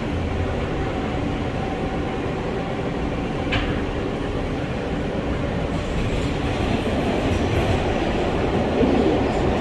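R143 subway train running on the L line, heard from inside the car: a steady rumble of wheels on rail with a single click about three and a half seconds in, growing a little louder and more rattly in the last few seconds.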